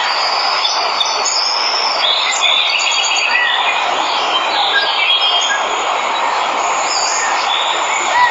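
Steady rush of a waterfall with many jungle birds chirping and trilling over it.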